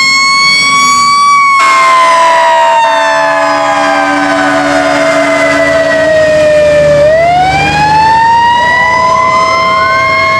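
Fire truck's mechanical Q siren winding slowly down in pitch, then spinning back up into a rising scream about seven seconds in, with a second siren rising near the end.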